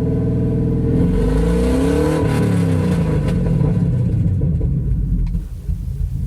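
Ford truck engine running, revved once about a second in, its pitch rising and falling back over a couple of seconds before settling to idle. The engine has a lean condition that sets a bank 1 system-too-lean code, which the owner puts down to dirty fuel injectors.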